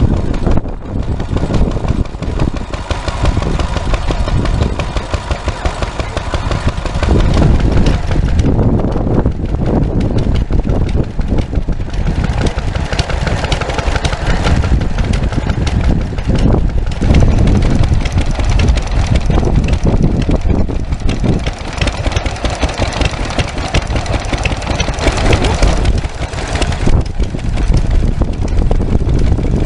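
Vintage stationary engines running with a steady, fast, even beat.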